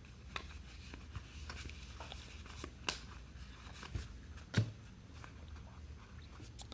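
Trading cards and pack wrappers being handled: scattered soft clicks and rustles over a low room hum.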